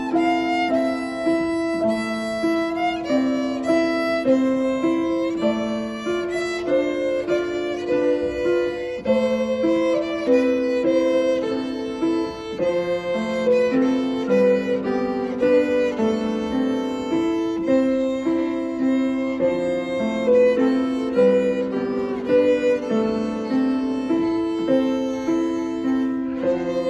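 A live instrumental duet with a Steinway grand piano: a steady, flowing melody of held notes moving step by step, with no pause.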